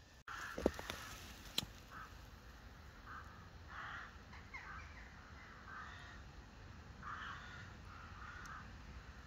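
A bird calling repeatedly, short calls about once a second, with two sharp clicks in the first couple of seconds.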